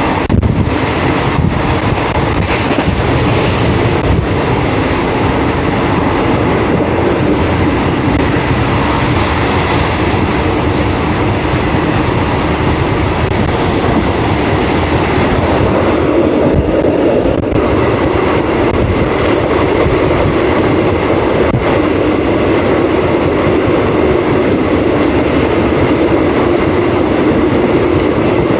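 Train running along the track: a steady rumble, with the clickety-clack of wheels over rail joints, most distinct in the first few seconds.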